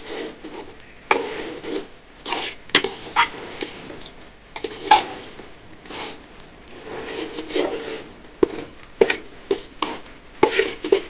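A spatula scraping and knocking against a cooking pot in irregular strokes as rice is stirred and fried for bhuna khichuri.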